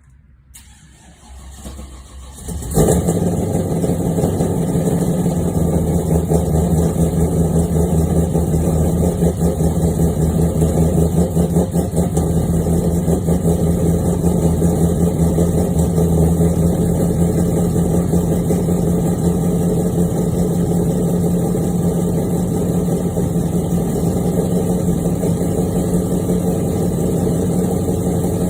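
1999 Chevrolet Camaro Z28's 5.7-litre LS1 V8 on a cold start: it cranks for under three seconds, catches with a sudden jump in loudness, then settles into a steady, fast cold idle.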